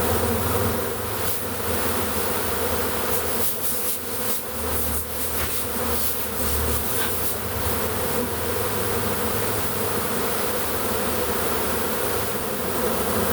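A large honey bee swarm buzzing, a steady dense drone of many bees as the swarm walks into a hive box.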